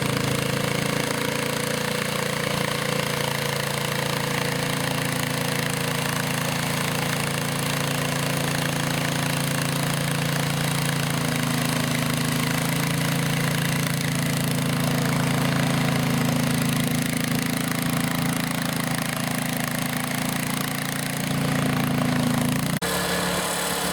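Garden tractor engine running steadily, its pitch shifting a little partway through. The sound changes abruptly near the end.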